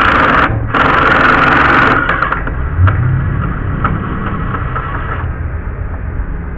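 Power drill running in two short bursts in the first two seconds as it backs a long deck screw out of the wood. A quieter steady noise with a few ticks follows until about five seconds in.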